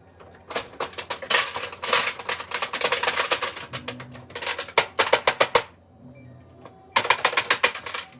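Rapid, dense clicking and clacking in two bursts: a long run of quick clicks, a pause, then a second shorter run about seven seconds in.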